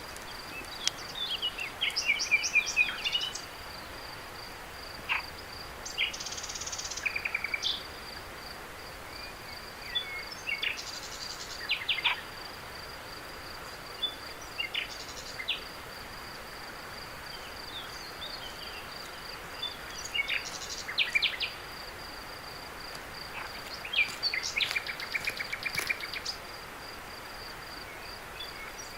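Cricket chirping in a steady, high, rapidly pulsing trill, with bird chirps and short trilled calls breaking in every few seconds, over a soft background hiss.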